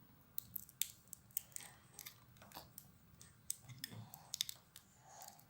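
Irregular small clicks and crackles of small craft pieces being handled and pressed together by hand.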